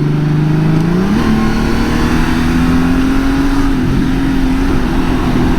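2018 Honda Gold Wing's flat-six engine running under way; about a second in its revs jump up quickly and then hold at the higher pitch, as with a downshift or a roll-on of throttle.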